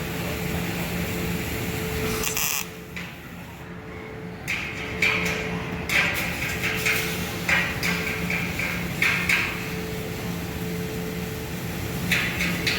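MIG welding arc crackling and sputtering in stops and starts, over a steady hum. The arc runs for about two and a half seconds, stops for about two seconds, then strikes again in uneven crackling spurts and once more near the end.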